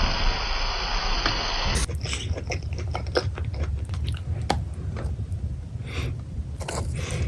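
A steady hiss for about the first two seconds, then close-miked eating sounds: biting into and chewing pepperoni pizza, with short wet mouth clicks over a low hum.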